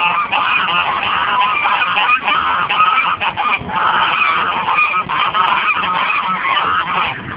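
A flock of domestic geese honking continuously, many overlapping calls at once, as they crowd round to be fed.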